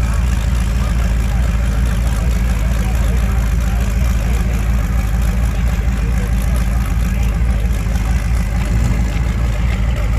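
Engines idling, a steady, loud low rumble with no revving, under faint background voices.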